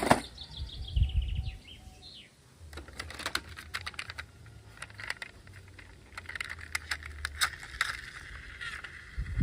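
Scattered light clicks and taps, like small hard objects being handled, with faint bird chirps behind them.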